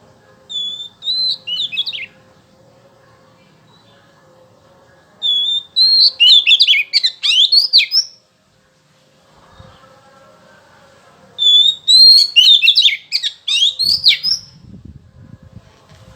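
Oriental magpie-robin (kacer) singing: three bursts of rapid, sweeping whistled phrases, each opening on a short steady note. The second and third bursts are louder and longer than the first.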